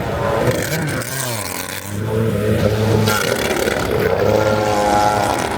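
Motorised surfboard engines running on the water. Their pitch dips about a second in, then holds steady again.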